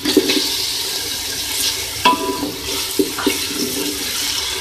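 Chopped tomatoes sizzling as they fry in hot ghee in a pot, a steady hiss, while a wooden spatula stirs them and knocks against the pot a few times.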